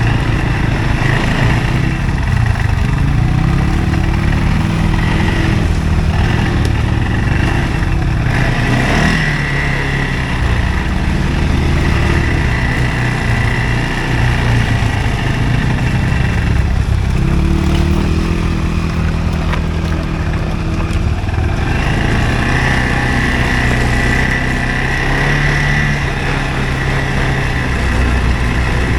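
CFMoto quad (ATV) engine running continuously, its pitch rising and falling as the throttle is worked.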